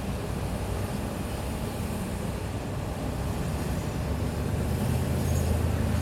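City street traffic ambience: a steady low rumble of vehicles passing, growing louder near the end as a heavy vehicle comes closer.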